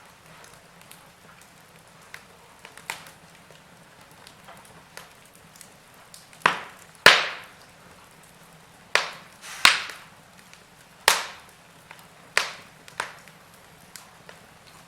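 Log fire crackling: sharp pops and snaps over a faint low hiss, a few small ticks at first, then a cluster of about seven loud pops through the middle and latter part.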